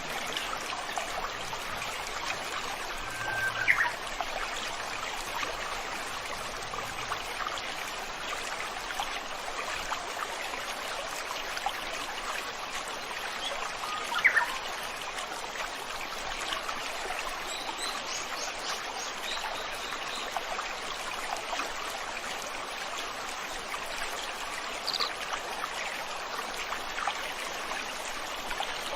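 Steady rush of a flowing stream, with a bird giving a short, sharp call twice, a few seconds in and about halfway through, and a few fainter, higher chirps later on.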